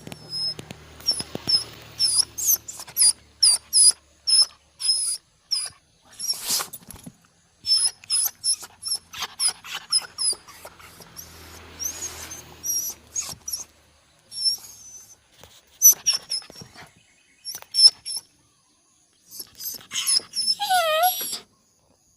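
A bird making a strange call: runs of short, high chirps with brief pauses between them, and near the end a loud squealing note that falls steeply in pitch.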